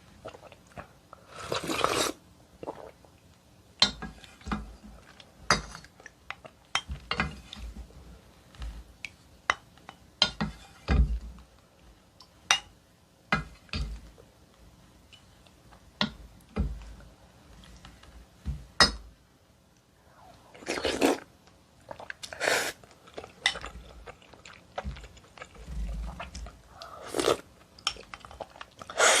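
Close-miked eating of maesaengi seaweed and oyster soup: chewing and wet mouth sounds with many short clicks, a spoon clinking against the bowl, and a few longer noisier mouthfuls.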